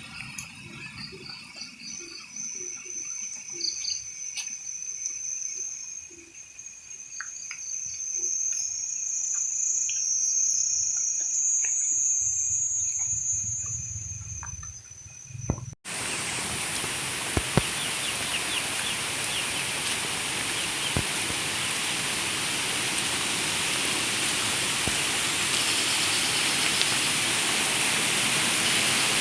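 Insects buzzing steadily at a high pitch, swelling and fading, with a few scattered bird calls. Then a sudden cut to a louder, even hiss of rushing water.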